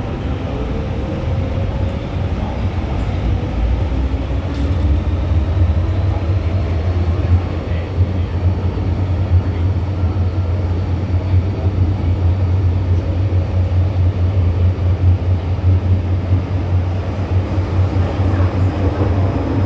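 MTR M-Train electric multiple unit running on the Island Line: a loud, steady low rumble of wheels on track, with the traction motor whine rising in pitch over the first several seconds as the train picks up speed.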